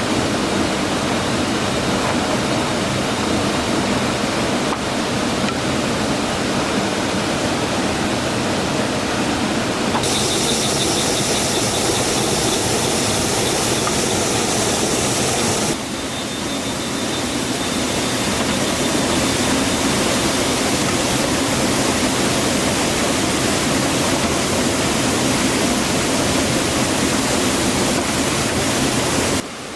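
Steady rushing water of a highland waterfall. From about ten seconds in, a high, thin steady whine joins it, and the sound changes abruptly a little past halfway.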